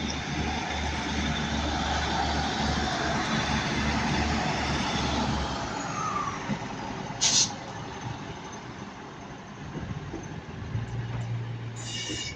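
Class 156 Sprinter diesel multiple unit pulling away from the platform: its underfloor diesel engines run with a low, pulsing note and rolling noise for about six seconds, then fade as it departs. A short, sharp hiss follows about seven seconds in.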